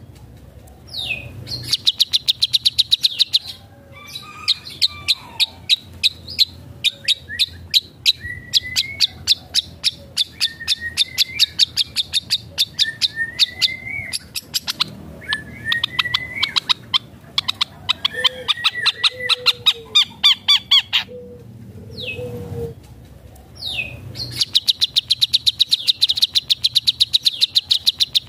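Long-tailed shrike (cendet) singing in long runs of rapid, sharp repeated notes, about ten a second, mixed with rising warbled phrases. These are the mimicked 'isian' phrases of a bird in full song, with short pauses between the runs.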